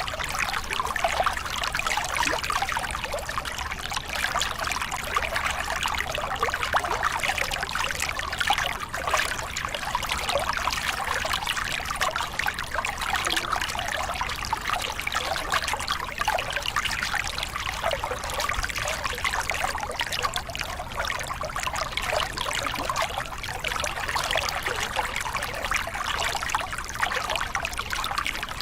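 Small river cascade: water pouring and splashing over rocks in a steady, continuous rush.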